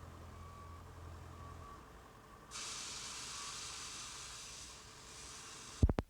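Recording hiss and low hum on old news-film audio. The hiss jumps up sharply about two and a half seconds in, and a single loud click comes near the end.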